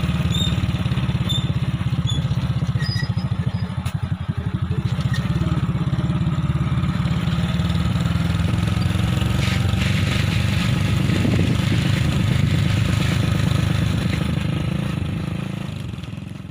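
Small motorcycle engine running steadily with a fast, even putter, and a few short high chirps over it in the first few seconds.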